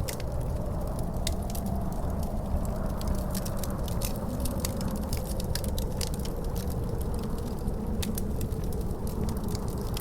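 Wood fire crackling in a fireplace, with frequent sharp pops and snaps over a steady low wind rumble.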